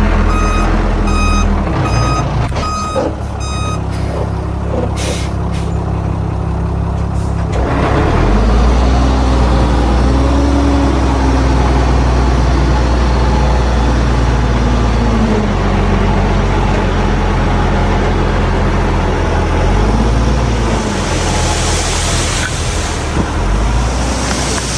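Heavy diesel earthmoving machinery at work. A reversing alarm beeps about twice a second and stops about three seconds in. The big diesel engine then runs hard with its pitch rising and falling under load, and a hiss comes near the end.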